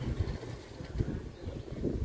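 Wind buffeting the microphone in uneven low gusts, over the low running of a truck engine pulling a trailer through mud.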